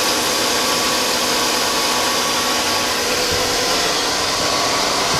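Chevy Avalanche's 5.3 L V8 idling, heard close up in the open engine bay: a steady whoosh of the cooling fan and belt-driven accessories with a faint steady whine over it.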